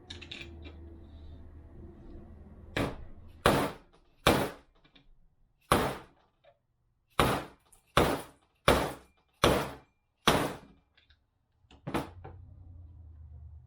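About ten sharp hammer blows, unevenly spaced, driving a worn bearing out of a 42RE automatic transmission drum.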